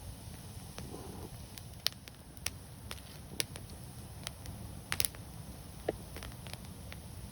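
Wood fire crackling: scattered sharp pops, a close double pop about five seconds in, over a steady low rumble of burning.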